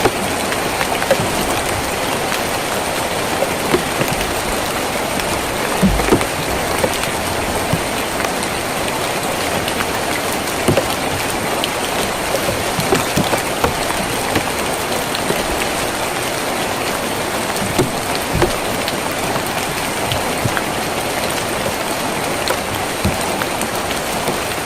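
Steady rain on a tin roof, an even hiss with single heavier drops landing as sharp taps here and there, a few of them duller thuds.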